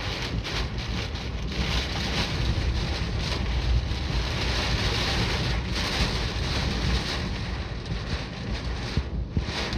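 Typhoon wind and rain, gusting hard with a heavy low rumble of wind buffeting the microphone; brief lulls about six seconds in and near the end.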